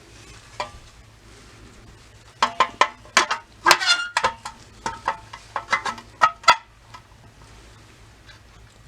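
A single click, then a quick cluster of about a dozen sharp metal clicks and knocks with a short ring, like parts of a pressed-steel toy truck being handled and fitted.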